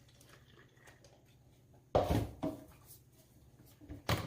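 A sharp knock about two seconds in, then a few lighter knocks near the end: hard items being set down and handled while milk is added to the Nespresso Gran Lattissima's plastic milk jug.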